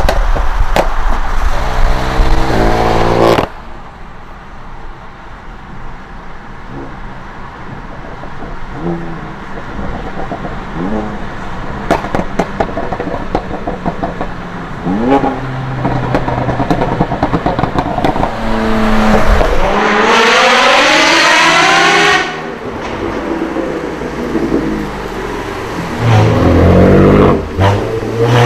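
Modified car engines revving hard in a run of short clips, the pitch climbing steeply with each rev, with scattered sharp exhaust pops and crackles in the quieter stretches between revs.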